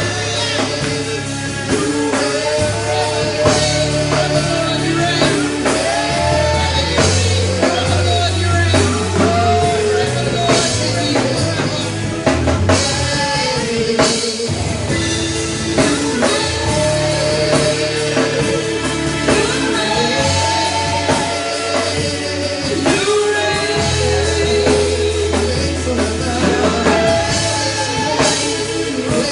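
Live worship band music: singing over drum kit, bass and guitar.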